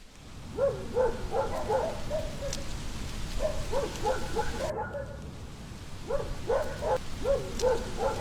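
An animal calling in three runs of short, quick calls over a steady background hiss.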